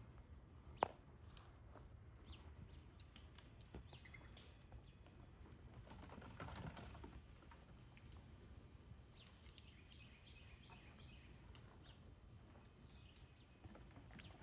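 Faint outdoor quiet with birds chirping now and then, a few soft scattered clicks and one sharp click about a second in.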